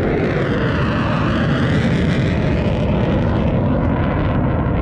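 Airplane flying low past, a loud steady engine noise whose tone sweeps down and back up as it passes.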